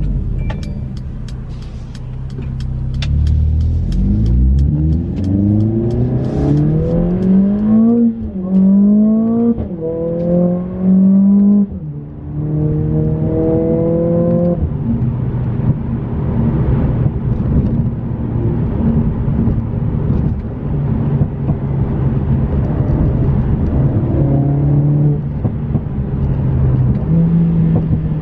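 Mercedes-AMG CLA 45's turbocharged four-cylinder engine accelerating hard, its pitch climbing and dropping sharply with quick upshifts about 8, 10 and 12 seconds in, then running at a steady cruise. A run of sharp ticks sounds during the first few seconds of the pull.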